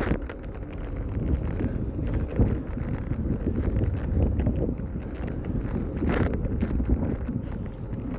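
Wind buffeting the microphone of a camera on a moving bicycle, a steady low rumble with scattered knocks and rattles and a short hiss about six seconds in.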